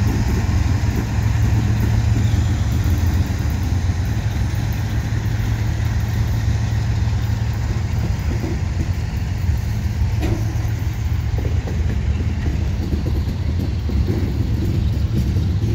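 Freight train passing slowly behind two GE ES44AC diesel locomotives. The locomotives' engines give a steady low hum throughout, and the tank cars and gondolas roll by with a few faint wheel clicks on the rails.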